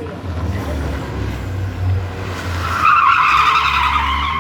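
Rally car engine running with a low steady note, then its tyres squeal loudly for over a second as the car slides sideways, starting about three seconds in.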